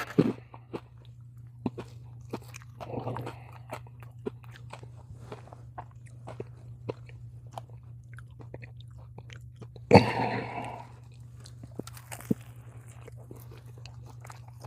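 Close-up crunching and chewing of kettle chips: many small, sharp crackles, with a louder crunch about ten seconds in.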